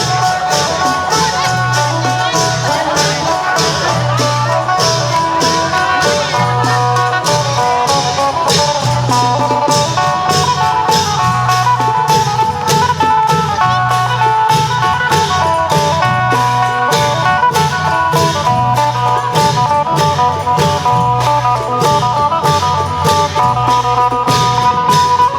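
Isan klong yao long-drum band playing with a phin (plucked lute) leading a quick melody over a steady beat of drums and cymbals, with a low drum pulse about once a second.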